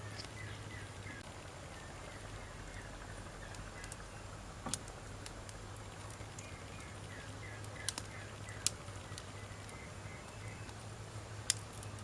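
Burning firewood crackling, with a few sharp snapping pops standing out over a soft steady background.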